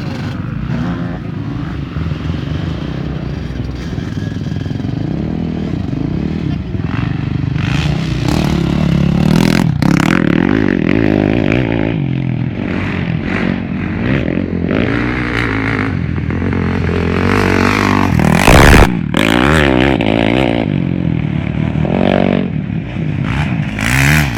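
Motocross bikes riding the track, engines revving up and falling back again and again. A brief loud rush of noise cuts in about three quarters of the way through.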